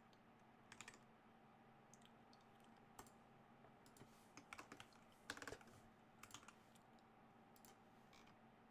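Faint computer keyboard typing: scattered keystroke clicks in short irregular bursts, over a faint steady hum.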